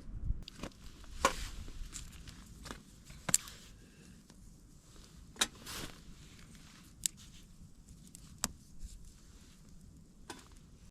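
Handling noise while a fire is laid in a metal stick stove: about six scattered sharp clicks and light knocks over soft rustling.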